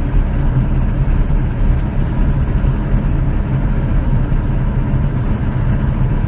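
Light propeller aircraft's engine droning steadily, heard from inside the cockpit in cruise flight, with no change in pitch.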